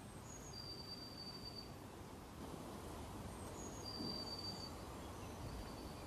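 Faint outdoor ambience with a low steady hiss and thin, high whistled bird notes: a held whistle near the start and another about four seconds in, each lasting about a second, with a few shorter higher notes between.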